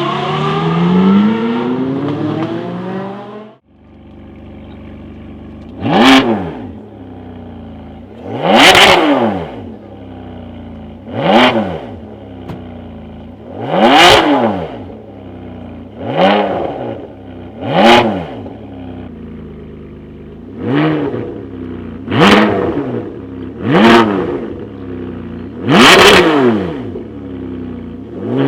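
V12 supercar engine accelerating hard, its pitch rising in steps. About three and a half seconds in it breaks off, and a V12 idles and is blipped about eleven times, each short rev rising and falling back, roughly two seconds apart.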